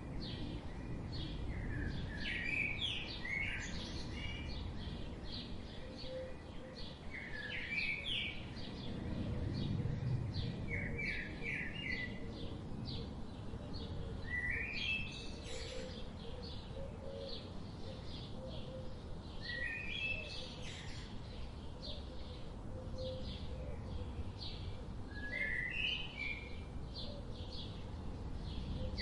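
Several wild birds chirping and calling, short quick chirps and little clusters of rising notes repeating throughout, over a steady low background noise.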